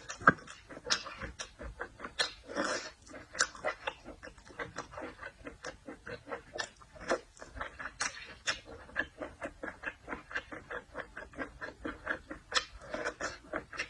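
Close-miked chewing of seafood, with wet mouth smacks and clicks coming several times a second.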